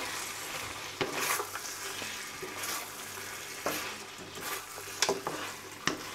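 Mutton pieces sizzling in oil in a karahi while a wooden spatula stirs them, with several sharp knocks and scrapes of the spatula against the pan. The meat's liquid has been cooked off, so it is frying in the oil.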